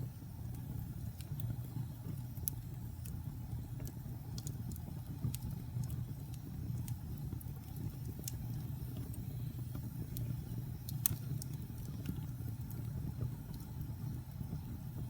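Log fire burning in a fireplace: a steady low rumble of the flames with irregular sharp crackles and pops from the burning wood, a few of them louder.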